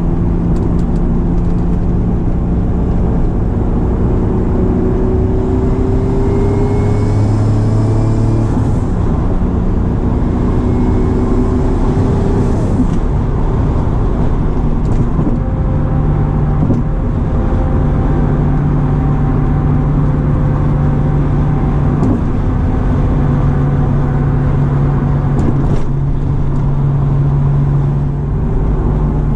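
Twin-turbocharged Acura NSX V6 running under light throttle with steady road noise, heard from inside the cabin. The engine note rises gently a few times in the first half, then holds at a steady cruising pitch.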